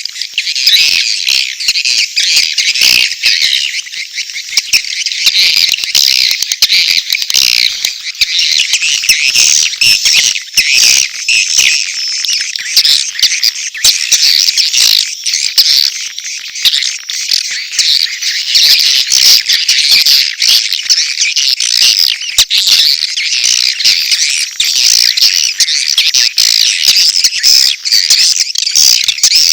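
Swiftlets calling: a dense, unbroken chatter of many overlapping rapid, high chirps and twitters, a mix of mating calls and chick calls.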